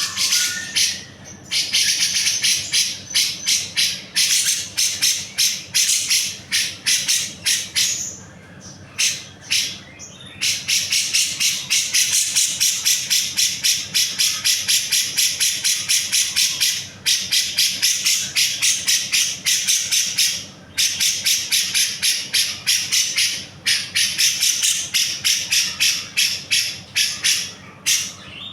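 Grey-cheeked bulbul (cucak jenggot) singing in long runs of rapid, high, harsh notes, several a second, broken by short pauses.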